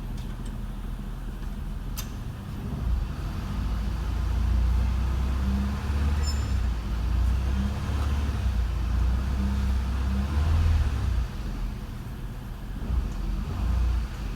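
Pontiac Firebird's 3800 V6 engine running, its low hum growing louder for several seconds in the middle, then easing back. A sharp click about two seconds in.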